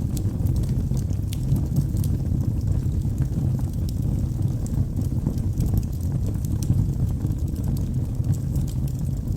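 Log fire burning in a fireplace: a steady low rumble of flames with scattered small crackles and pops from the burning wood.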